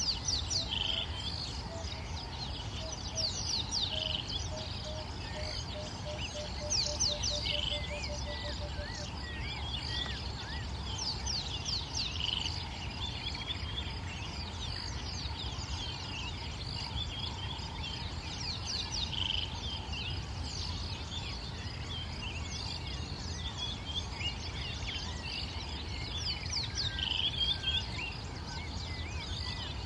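Wild birds calling: repeated high chirps and short down-slurred whistles, with one bird giving a low series of notes that speeds up over the first nine seconds. A steady low rumble runs underneath.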